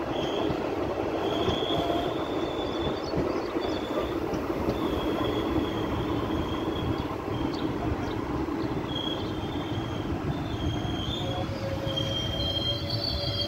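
Passenger train coach running along the track, heard from inside the coach: a steady rumble of wheels on rails, with a high, thin wheel squeal that comes and goes every second or so.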